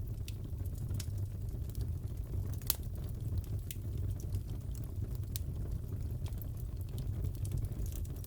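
Fireplace crackling: a steady low rumble of burning wood with scattered sharp pops and snaps, one louder pop a little under three seconds in.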